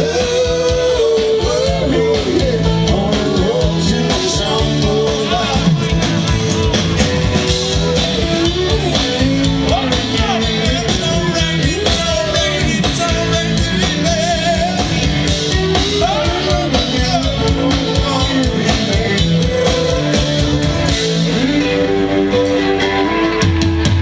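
Rock band playing live, with lead guitar lines over a steady drum beat. Near the end the drums drop out and the band holds a sustained chord.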